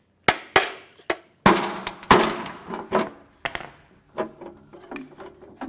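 Irregular metal knocks and clanks as the oil pan is worked loose from a blown 5.7L Vortec V8, about a dozen hits, the later ones followed by a brief metallic ring.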